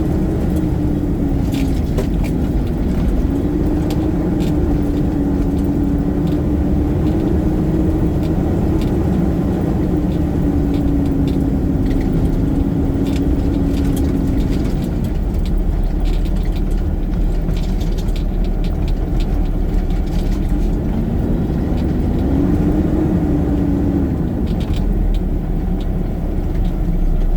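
Garbage truck's engine running with a steady low rumble, its note rising and falling a few times, with light rattles and clicks throughout.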